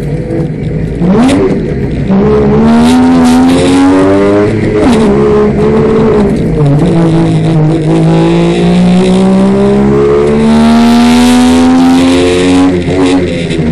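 Rally car's engine heard from inside the cabin, accelerating hard through the gears: the revs climb, drop at gear changes about five and seven seconds in, then climb steadily for several seconds before falling back near the end.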